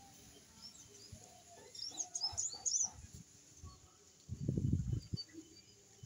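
A small bird chirping: a quick cluster of short, high chirps about two seconds in. A low, muffled rumble follows about four and a half seconds in.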